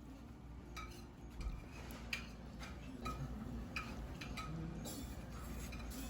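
A run of short, sharp clicks at a fairly even pace of about two a second, each with a brief metallic ring, over a faint low hum.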